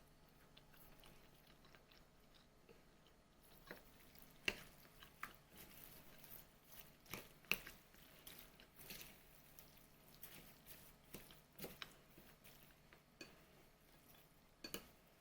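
Faint, irregular clicks and soft taps of hands handling tableware or food, starting a few seconds in, with soft chewing-like sounds between them.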